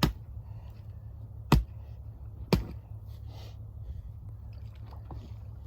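A hand tool striking frozen pond ice three times as the ice is busted open, three sharp impacts over about two and a half seconds.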